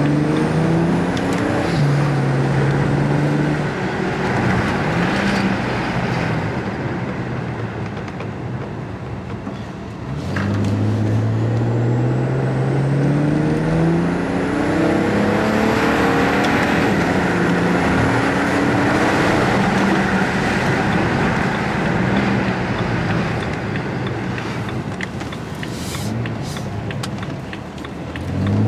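BMW E92 335i's turbocharged inline-six pulling hard under acceleration, heard from inside the cabin: the engine pitch climbs through each gear, drops back at the shift, and climbs again. It runs smoothly with the misfire gone after new spark plugs and coil packs.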